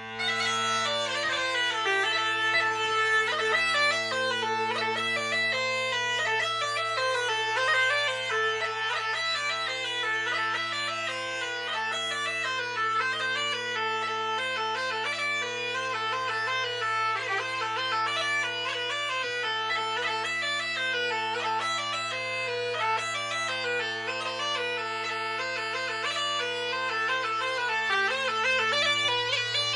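Bagpipe music: steady drones under a fast, busy chanter melody.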